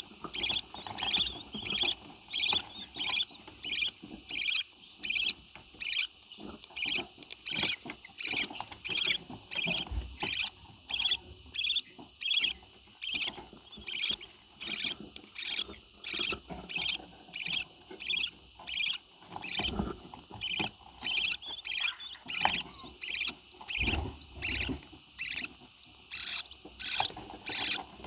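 A parrot calling in short, high chirps, repeated evenly about one and a half times a second, with a few soft low thumps.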